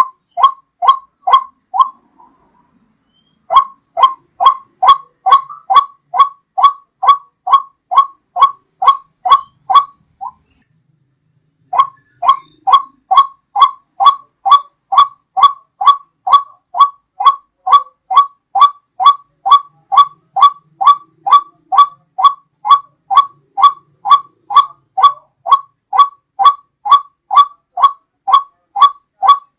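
White-breasted waterhen (ruak-ruak) call played as a hunting lure: one short note repeated about twice a second, each dropping slightly in pitch. The series breaks off twice for a second or so, then resumes.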